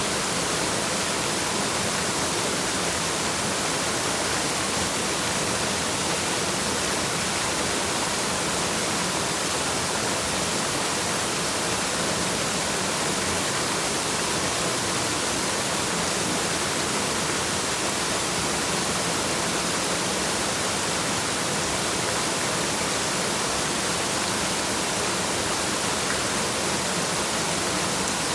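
Waterfall: a steady, unbroken rush of falling water, heavy in hiss, with no change in level.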